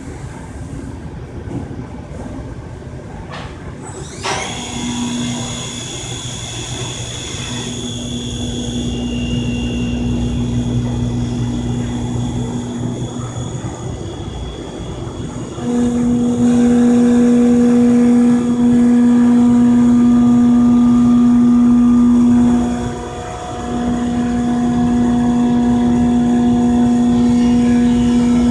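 Locatelli MK CNC machine tool running with a steady mechanical whine. There is a sharp click about four seconds in. A little past halfway the whine steps up much louder, dips briefly, then carries on.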